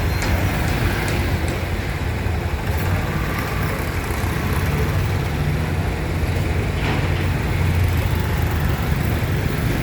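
Flatbed truck's engine running steadily at low revs, a low hum, over city traffic noise.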